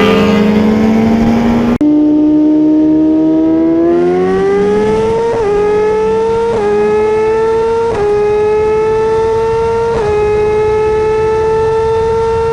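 Sport bike engine pulling hard at high speed, its pitch climbing slowly and dipping briefly at each upshift, about five shifts in all. There is a sudden cut to a different engine note about two seconds in.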